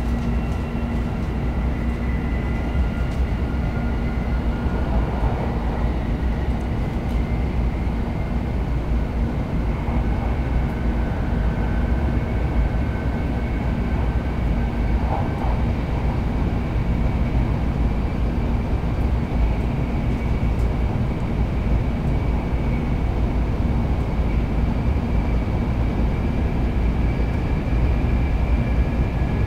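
Shinkansen bullet train heard from inside the passenger cabin while running at speed: a steady low rumble with a faint high whine that creeps slightly upward in pitch.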